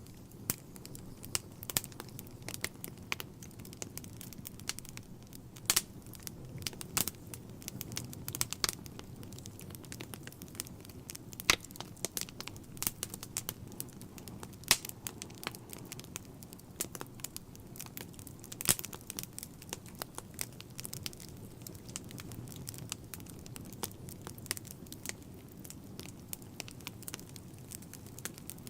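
Wood fire burning in a fireplace: a steady low rumble of flames with irregular crackles and sharp pops from the logs, a few much louder than the rest.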